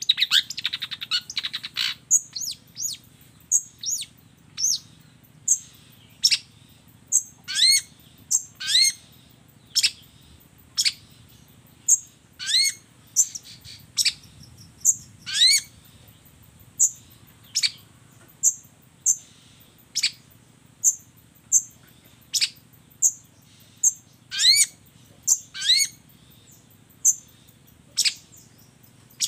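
Long-tailed shrike (cendet) calling: a rapid chatter at first, then a string of short, sharp, downward-sweeping calls, roughly one a second.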